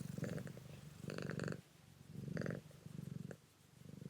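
A cat purring close by, a low pulsing rumble that swells and fades about once a second with each breath in and out.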